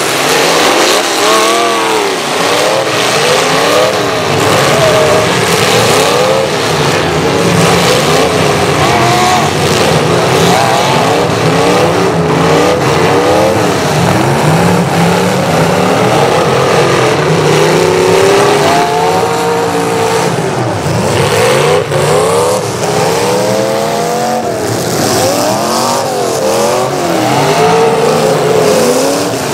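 Several demolition derby car engines revving up and down at once, loud and continuous, their pitches rising and falling as the cars rev.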